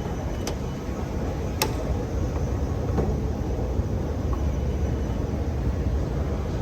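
Steady low rumble of a large underground station interior, with two short sharp clicks in the first two seconds.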